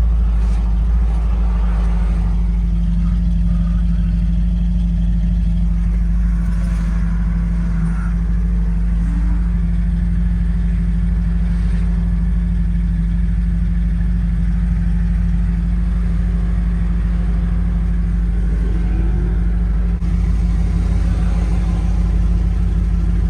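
1972 Ford F250 pickup's engine running steadily on a test drive, a continuous low drone through its dual exhaust with Cherry Bomb mufflers.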